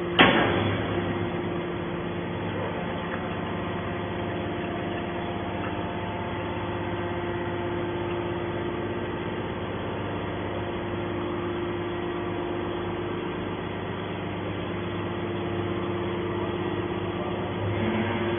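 Y81T-1600 hydraulic scrap metal baler running: a steady hum from its hydraulic power unit, with one loud bang right at the start.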